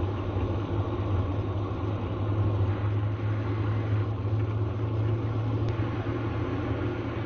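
Airplane jet engine running steadily: a continuous low rumble with a rushing hiss over it.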